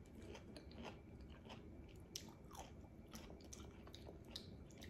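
Faint, close-up chewing of pomelo pulp: irregular small wet mouth clicks as the juice sacs pop.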